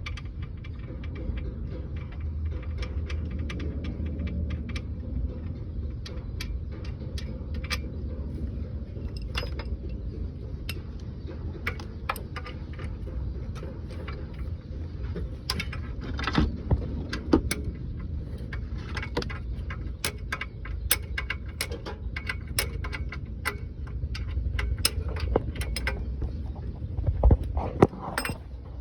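Metal tools clinking and knocking on truck parts in many short sharp clicks over a steady low rumble, with a few louder knocks about halfway through and near the end.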